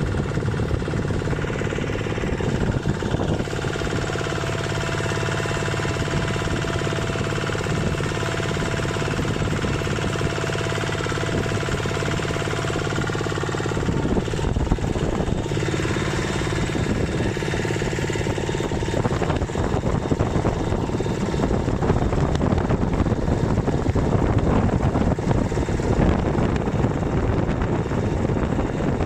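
Kubota RT walking tractor's single-cylinder diesel engine running steadily as the tractor drives along. About halfway through, the sound turns rougher and noisier.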